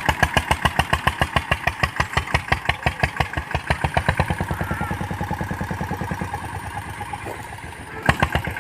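Mahindra Yuvraj 215 NXT mini tractor's single-cylinder diesel engine chugging steadily in an even beat, about seven a second, growing quieter after about five seconds. A single sharp knock near the end.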